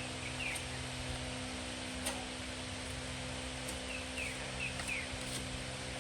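Steady electrical hum and hiss with a few short, faint bird chirps, a small group about half a second in and more near the end, and a couple of light clicks.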